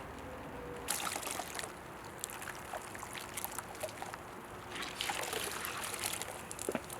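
Water splashing and trickling on a car's body panel during washing, in two short spells about a second in and about five seconds in, with small scattered splashes between.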